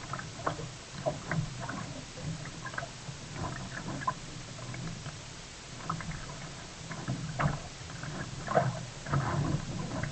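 Water splashing and lapping around a sea kayak, with many irregular small splashes and knocks over a steady low background; the strongest come about seven and a half seconds in and again a little later.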